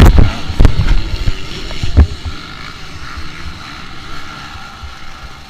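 Dirt bike crashing: several heavy thumps in the first two seconds, the last about two seconds in, then a steady rush of wind noise on the microphone.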